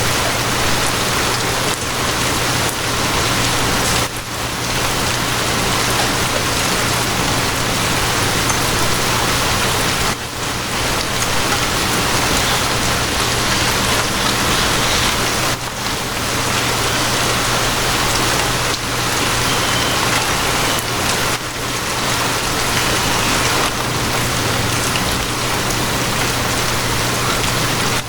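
Steady heavy rain, an even hiss with a low steady hum beneath it. The hiss dips briefly in level a few times.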